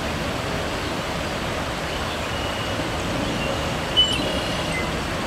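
Steady outdoor rushing noise with no clear single source. A few faint, thin, high chirps come and go about halfway through, with one short sharper chirp near the end.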